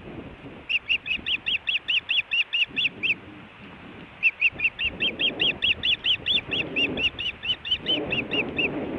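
Osprey calling from the nest: two bouts of rapid, high-pitched chirps, about five a second, with a short pause between them. A low rumble of wind on the microphone grows near the end.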